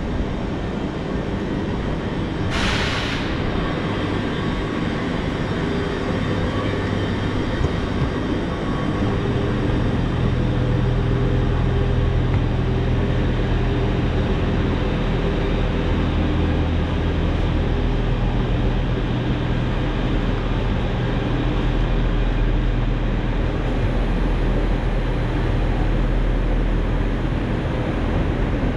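A passenger train running, a steady rumble with a low drone that grows stronger about a third of the way in. A short hiss sounds a few seconds in.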